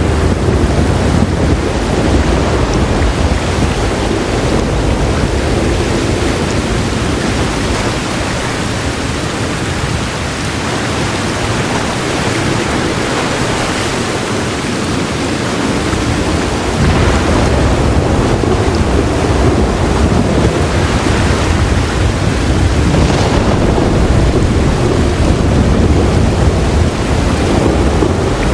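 Heavy rain falling in a steady, dense hiss with low thunder rolling under it. The rumble eases off about ten seconds in and swells back strongly around seventeen seconds in.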